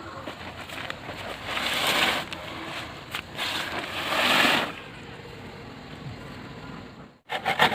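Stormy wind noise rising and falling in gusts. Near the end it cuts off abruptly and quick, rhythmic rubbing strokes begin.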